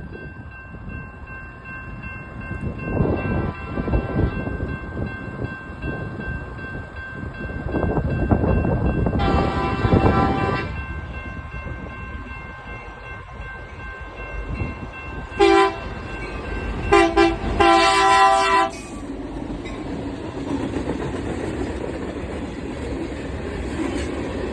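Union Pacific switching train's locomotive air horn sounding a grade-crossing sequence: a faint blast, a long loud blast, a short one, then two more blasts close together. A continuous train rumble runs beneath, settling into a steady drone of the passing train near the end.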